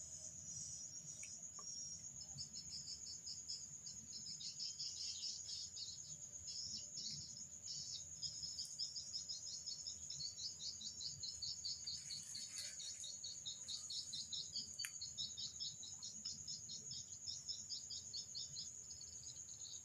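Steady high-pitched insect shrilling, with long runs of rapid repeated chirps over it.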